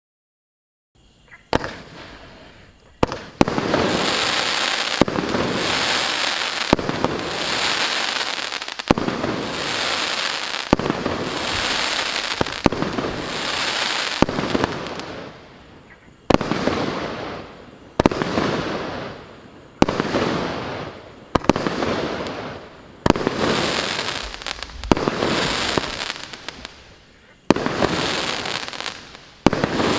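Shapes Sound GP511 fireworks battery firing, starting about a second in. Sharp shots come one after another, roughly every one and a half to two seconds, each followed by a long crackling burst of noise that fades before the next shot.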